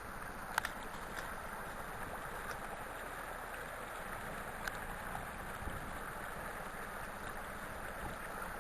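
Rain-swollen creek rushing steadily, an even wash of moving water. A short sharp tick about half a second in, and a fainter one later.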